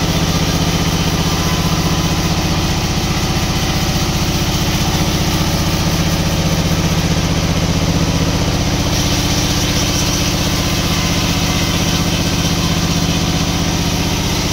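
An engine running steadily at constant speed, an even low drone that does not rise or fall.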